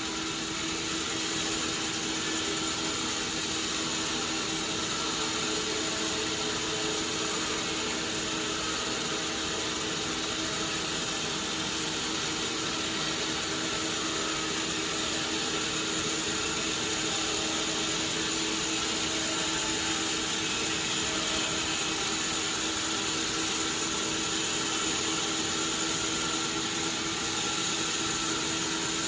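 Sawmill machinery running steadily: a continuous mechanical whir with a constant hum and a high, steady whine.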